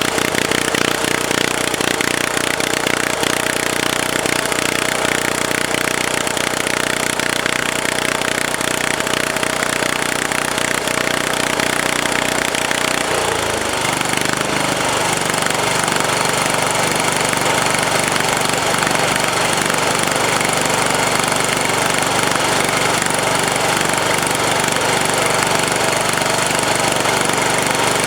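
Small pull-start diesel engine of a garden tractor running just after a freezing cold start, the engine still cold. About halfway through its note changes, turning from a rapid pulsing beat to a smoother, steadier run.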